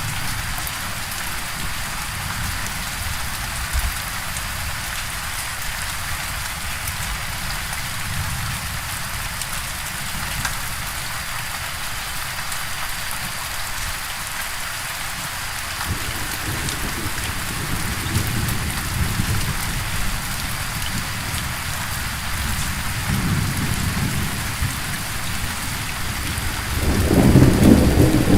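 Steady rain hissing down through a thunderstorm, with low rolls of thunder rumbling now and then; the loudest roll comes near the end.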